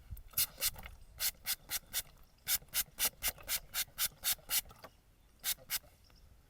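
Straight razor scraping through beard stubble in a run of short, crisp strokes, about three to four a second, in a few bursts with short pauses between.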